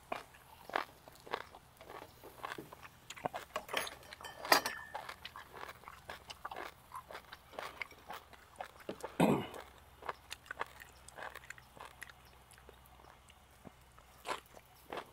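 Close-up eating sounds: a person biting and chewing crunchy grilled food, with many small clicks and mouth smacks. One louder mouth sound comes a little past the middle.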